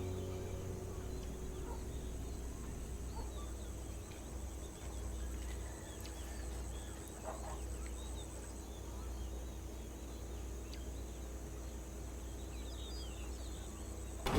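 Faint birds chirping now and then over a steady low rumble and a thin hum.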